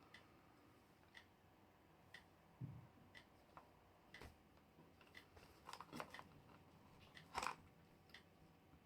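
A person chewing and crunching a sweet: faint, irregular crunches scattered through, with the loudest bite about seven and a half seconds in.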